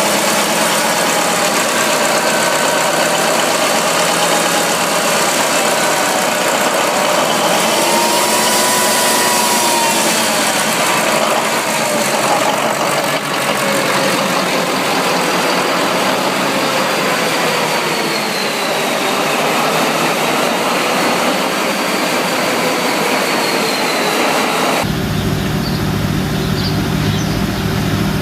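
Large engine running loud and steady, with faint whines drifting slowly up and down in pitch. About 25 seconds in it cuts abruptly to a different engine with a deep low rumble.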